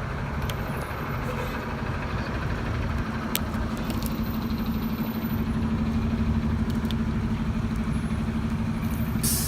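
Street traffic noise with a motor vehicle engine running steadily close by, a low drone that sets in about a second and a half in and holds. One sharp click, and a short hiss near the end.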